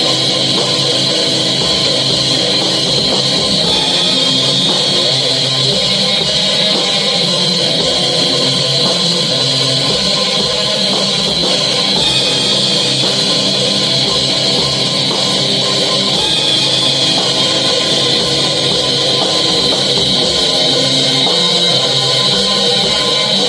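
Metal band rehearsing a song: distorted electric guitars over a drum kit in a dense, steady wall of sound at an even, loud level.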